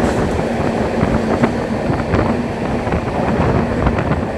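Passenger express train running at speed, heard from on board: a steady rumble and rush with scattered wheel knocks, and wind buffeting the microphone.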